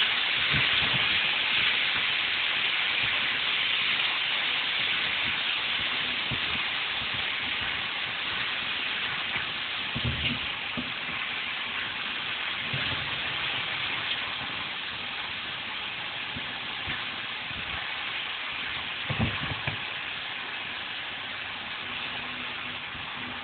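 King oyster mushrooms sautéing in garlic and olive oil in a grill pan: a steady frying sizzle that slowly fades as the mushrooms release their water, with a few soft knocks of a wooden spatula stirring them against the pan.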